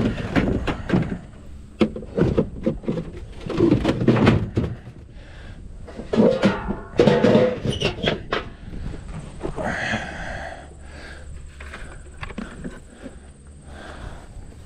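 Wooden beehive equipment being handled: a run of knocks and thuds over the first eight seconds or so, then quieter.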